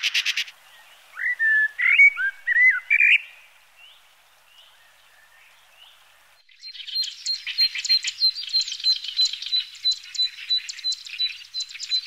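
Wild birdsong: a few loud, fluty whistled phrases that slide up and down in pitch in the first seconds. From about halfway, a fast run of repeated high chirps over a thin steady high note. A rapid pulsing call from before cuts off about half a second in.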